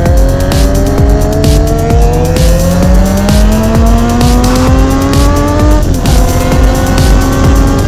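A car engine accelerating, its pitch climbing steadily and then dropping sharply about six seconds in, as at a gear change, then holding steady. Music with a regular beat plays underneath.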